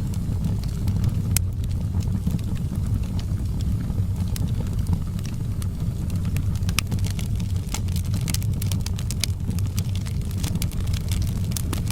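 Wood fire in a fireplace crackling, sharp scattered pops over a steady low rumble, the pops coming thicker in the second half.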